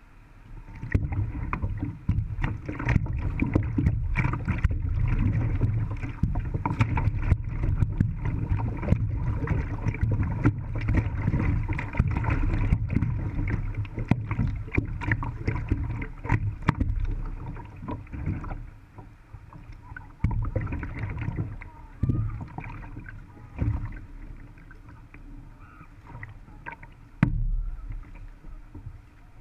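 Creek rapids rushing and splashing around a sit-on-top kayak, with many sharp knocks and splashes of paddle and hull. The water noise is heavy from about a second in and eases after about eighteen seconds, leaving a few separate loud splashes or thumps.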